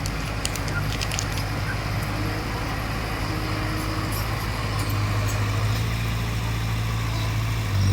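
Bulldozer's diesel engine running steadily under load, a low drone that grows a little louder about halfway through, with scattered sharp clicks and cracks from the work.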